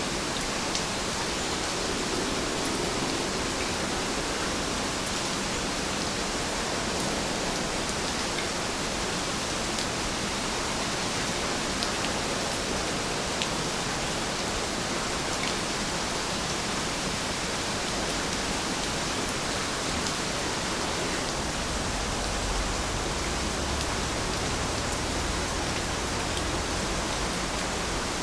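Heavy rain falling steadily, a continuous even hiss with a few faint drop taps. About three-quarters of the way in, a low rumble joins underneath.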